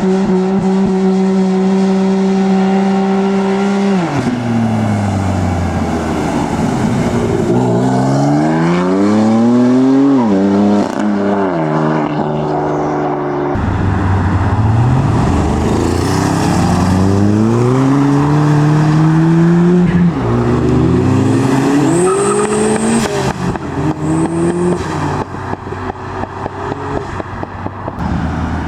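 Modified cars' engines revving hard as they accelerate away: one engine held at steady high revs for about four seconds, then several runs of rising revs dropping at each gear change. A short high-pitched squeal comes about two-thirds of the way through.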